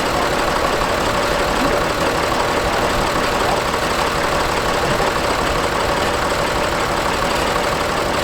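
Oliver tractor engine running at a steady speed, powering the front-end loader.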